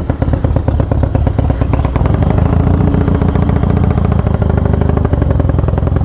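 Harley-Davidson Twin Cam 88 V-twin with Feuling 525 cams running at idle with a steady, even firing beat, started cold without the choke.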